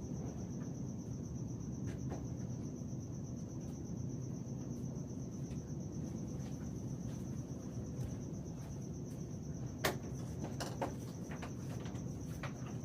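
Crickets trilling steadily in one high, even tone over a low background hiss, with a few sharp clicks and knocks starting about ten seconds in.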